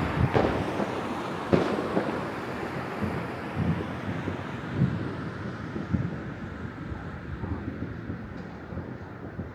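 Wind buffeting the microphone in a steady rumble, with several dull thuds of distant fireworks going off across the city. The wind noise eases off toward the end.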